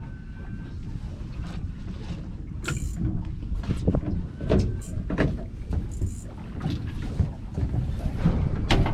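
Boat at sea: a steady low rumble of wind and water, with scattered knocks and splashes against the hull.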